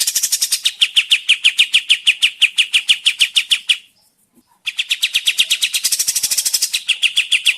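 A kapas tembak songbird giving a fast, rattling trill of sharp, slightly falling notes, about ten a second, which breaks off just before four seconds in and starts again under a second later.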